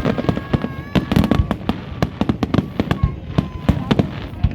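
Fireworks display: rapid, irregular bangs and crackles, several a second.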